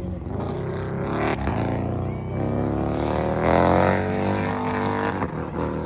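Racing motorcycle engines passing on the track, their pitch falling early on and rising again around the middle as they accelerate.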